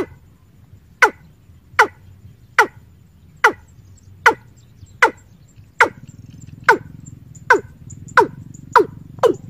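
A bird calling: a short note sliding quickly downward, repeated about once a second and coming faster toward the end.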